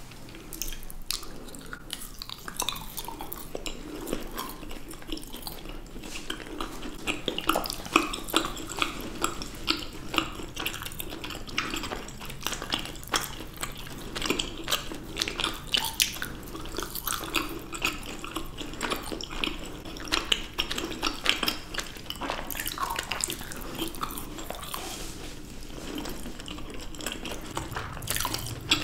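Close-miked chewing of sticky dried papaya by two people: dense, irregular clicks that go on throughout.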